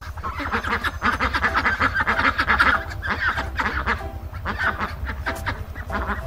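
A flock of ducks quacking, many calls overlapping in a dense run that starts abruptly, over a low steady rumble.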